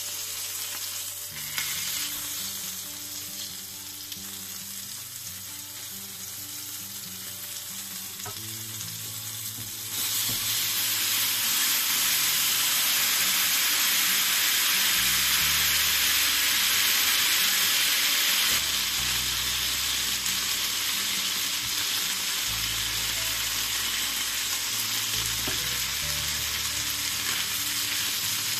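Beef fillet sizzling in hot fat in a frying pan. The sizzle turns much louder about ten seconds in and stays strong.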